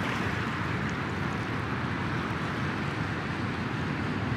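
Steady rushing noise of electroacoustic sea sound design, an even wash like surf and wind, with no swells or breaks.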